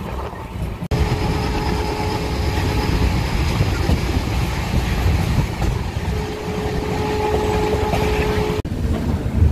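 Passenger train running along the track, a steady rumble with a sustained whine that comes and goes. The sound changes abruptly about a second in and again near the end.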